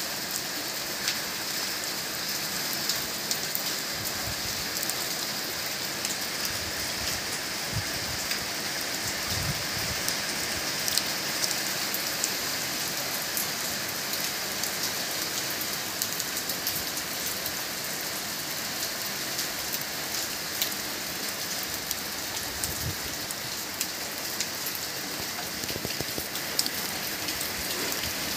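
Steady rain falling, an even hiss with many small ticks of single drops striking nearby.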